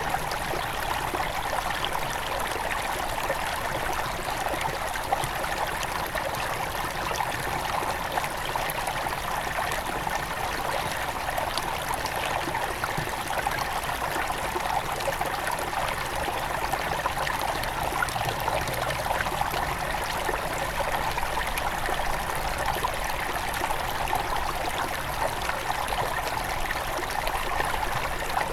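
Small mountain river near its source, its water running and trickling over stones in a steady babble with many small splashes.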